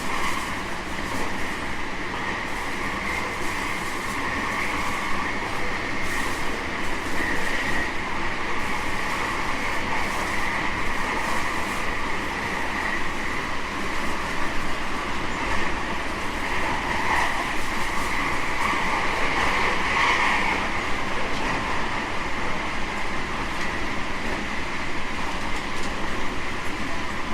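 JR West 225 series 5000 electric multiple unit with Toyo IGBT traction running along the line: steady wheel-on-rail and running noise with a level hum.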